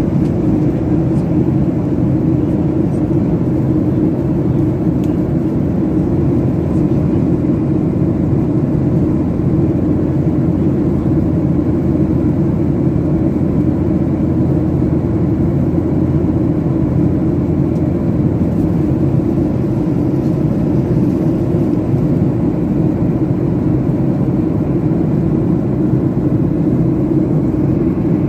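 Steady, even drone of a Boeing 737-800's CFM56 engines and rushing air, heard from inside the passenger cabin.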